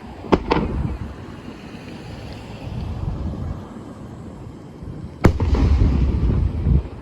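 Aerial fireworks shells bursting: two sharp bangs just after the start, then a louder bang about five seconds in, followed by a rolling low rumble.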